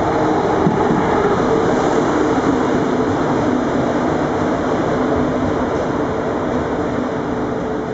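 Deutsche Bahn ICE high-speed train moving along the platform: a steady rumble of wheels on rails with a held electric hum, slowly fading as it pulls away in the last few seconds.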